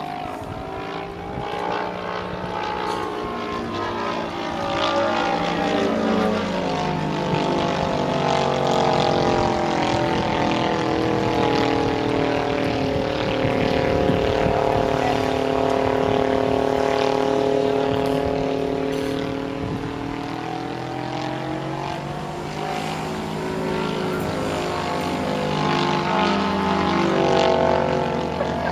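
Propeller aerobatic plane's piston engine droning overhead. Its pitch sinks slowly through the first half and climbs again near the end as the plane manoeuvres.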